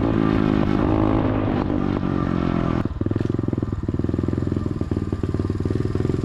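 SSR 125 automatic pit bike's single-cylinder four-stroke engine running at raised revs, then dropping suddenly to a pulsing idle about three seconds in and staying running.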